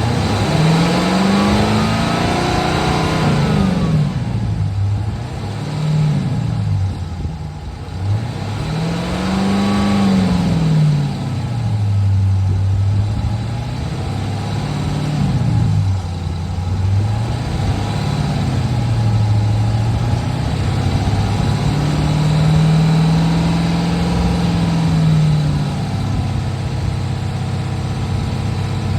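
Straight-piped Dodge Charger R/T V8 exhaust, engine speed rising and falling in smooth sweeps several times, held up for a few seconds before settling back near the end.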